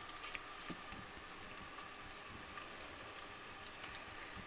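Chicken kebabs shallow-frying in oil in a pan: a faint, steady sizzle with small crackles.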